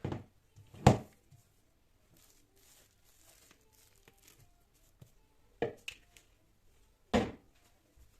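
Four sharp knocks of things being handled, the loudest about a second in and two more near the end, with faint rustling between them.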